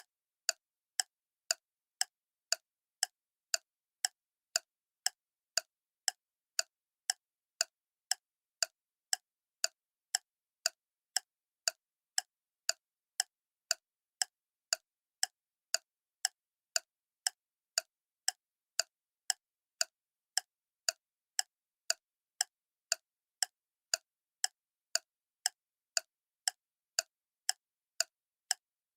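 Clock ticking steadily, about two short, sharp ticks a second with silence between them.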